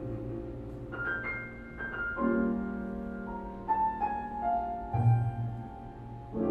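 Piano playing slow, ringing chords and single notes, with a low bass note sounding about five seconds in.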